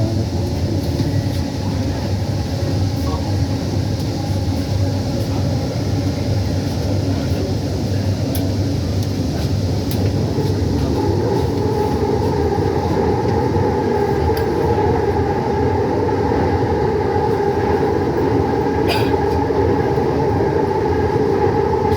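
Bengaluru metro train running between stations, heard from inside the coach: a steady rumble from the running train, with a humming tone that grows louder about halfway through.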